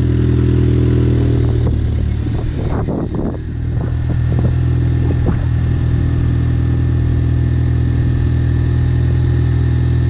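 Car engine idling steadily, with a few short, irregular knocks or clatters between about two and five seconds in.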